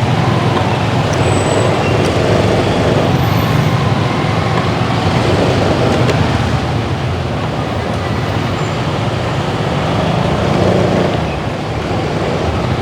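Steady road and traffic noise heard while riding a motorbike through town, with a low engine drone underneath.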